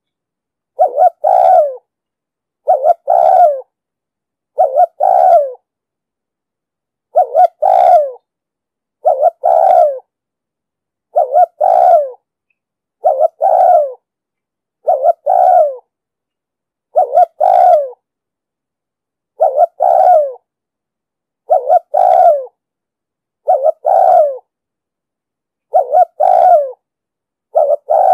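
Spotted dove cooing: the same short, low coo phrase repeats about once every two seconds. Each phrase is a brief note followed by a longer one.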